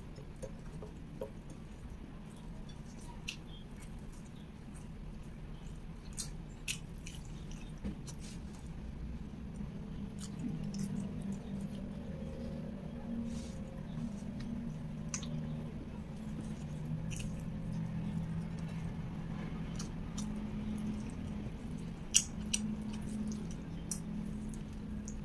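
Close-miked chewing of sticky rice and shredded beef: soft wet squishes and lip smacks with scattered sharp mouth clicks, over a low steady hum.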